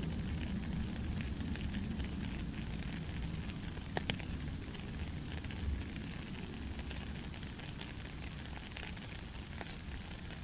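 Steady white noise for a baby's sleep, with a low rumble and faint crackling running through it. A single sharp click sounds about four seconds in.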